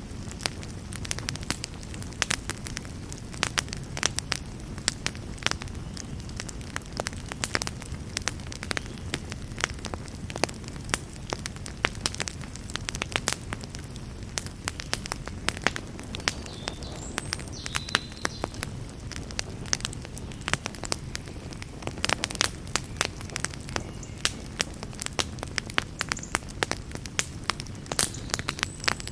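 Campfire burning: a steady low rumble of flames with frequent sharp crackles and pops from the burning wood, bunched more thickly about three-quarters of the way through.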